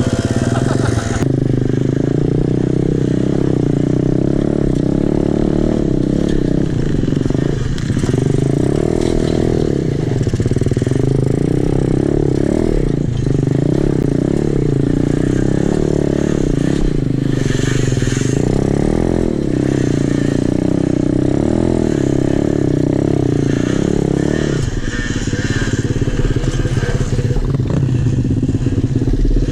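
Small single-cylinder pit bike engine running hard under throttle, its pitch rising and falling again and again as the throttle is worked. About 25 seconds in, the pitch settles lower.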